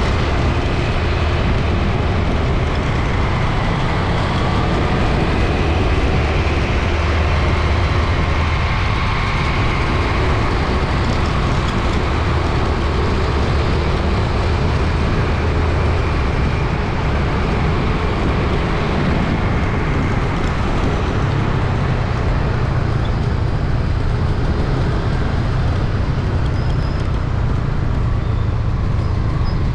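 Busy city street traffic: a steady wash of engines and tyres from many vehicles passing, with a constant low rumble.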